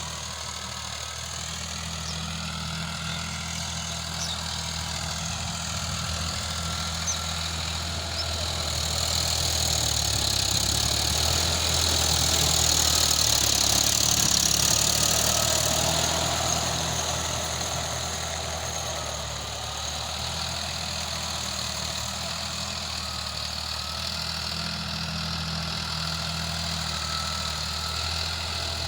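Sonalika RX 50 tractor's diesel engine running steadily at low speed. It grows louder for several seconds in the middle, then settles back.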